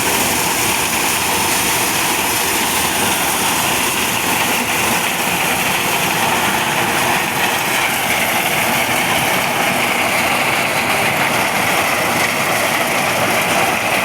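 Engine-driven corn sheller (maize thresher) running steadily and loudly, a continuous dense machine noise with no pauses.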